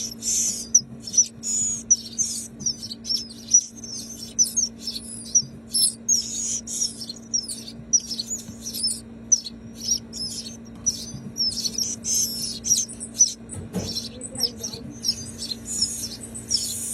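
Hand-reared nestling birds begging for food: a continuous stream of rapid, high-pitched chirps, over a steady low hum.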